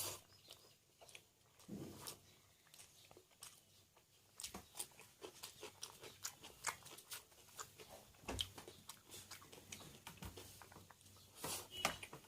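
Close-up chewing and mouth sounds of a person eating biryani: irregular soft smacks and clicks of biting and chewing, with a few louder ones near the end.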